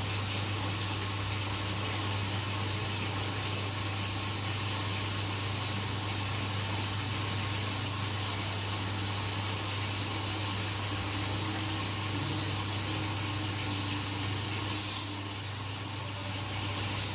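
Hoover washing machine drawing in water through its inlet valve during the test mode's fill stage: a steady rush of water with a steady low hum beneath it. Two short sharp sounds come near the end.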